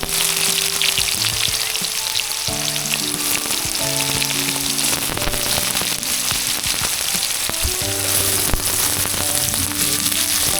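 Chopped onions frying in hot oil with whole spices and garlic in a pan: a steady, dense sizzle.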